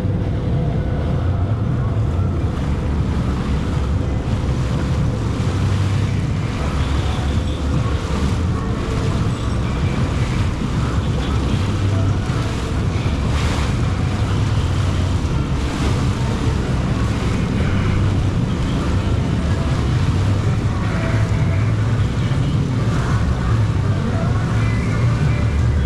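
Jet ski running steadily under way, its engine hum mixed with water rushing past the hull and wind buffeting the microphone.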